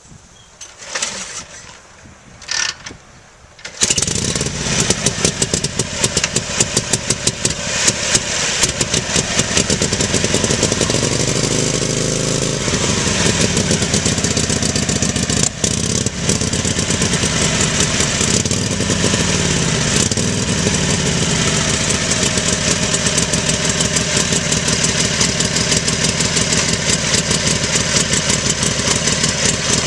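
1941 Harley-Davidson EL Knucklehead's V-twin on a cold start with full choke: a few short sounds, then it fires about four seconds in and runs loud. The engine speed rises and falls a few times before it settles into a steady, fast-pulsing idle.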